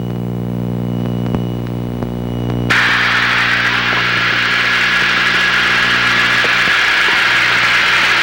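Twin piston engines of a light twin droning steadily, heard from the cockpit. Under three seconds in, a loud steady hiss of radio static cuts in suddenly over the engine drone.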